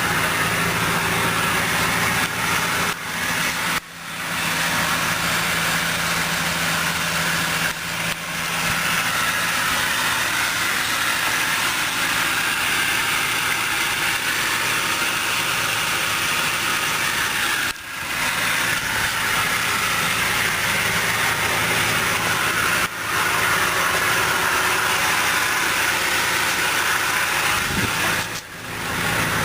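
Dodge Durango's 5.7-litre HEMI V8 idling steadily, with a few brief dips in level.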